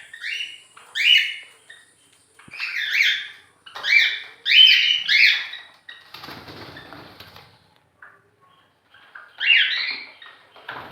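Caged pet birds give loud, short chirping calls in bunches. A spell of wing flapping comes about six seconds in.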